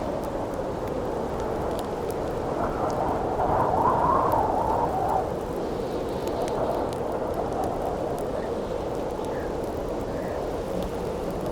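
Howling wind, a steady blow that swells into a stronger gust about three to five seconds in, with a campfire crackling under it in small scattered pops.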